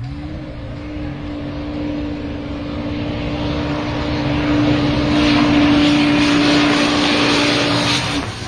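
UTV engine held at steady revs, giving one level droning note over a rushing noise. The noise grows louder through the middle. The note stops shortly before the end.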